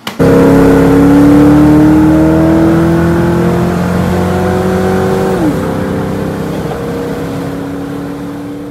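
Car engine pulling hard in one gear, its pitch climbing steadily for about five seconds, then dropping sharply at an upshift, after which it runs on at a steady, lower pitch.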